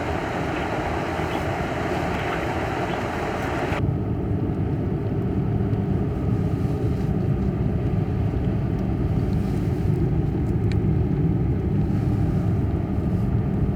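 Steady rumble of a car driving, with a hissing wash of wind and snow noise that drops away abruptly about four seconds in, leaving mainly the low rumble.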